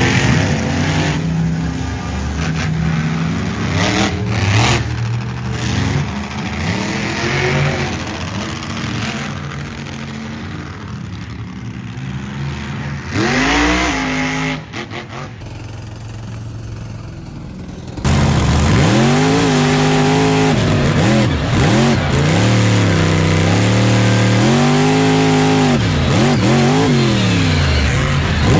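Monster truck engine revving up and down repeatedly in quick swells. About halfway through it jumps to a much louder, closer run of hard revs.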